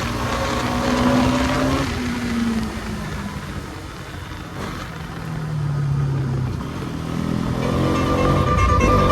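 Bajaj Pulsar NS200 BS6 motorcycle's single-cylinder engine running on the road. The revs drop after about two seconds, stay low for a while and climb again from about seven seconds in.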